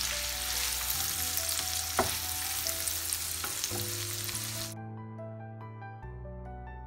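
Chopped onion sizzling in melted butter in a frying pan while a plastic spatula stirs it, with a sharp click about two seconds in. Soft background music plays throughout; the sizzling cuts off abruptly about two-thirds of the way through, leaving only the music.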